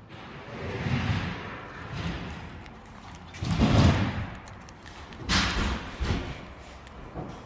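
Several dull thuds and knocks of carpentry work, such as wooden boards being handled and set down. The loudest thud comes about halfway through, followed by a sharper knock.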